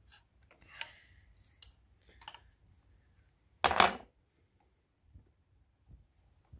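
A metal spanner clinking against the engine's fuel-line fittings: a few light ticks, then one loud metallic clank with a brief ringing a little under four seconds in.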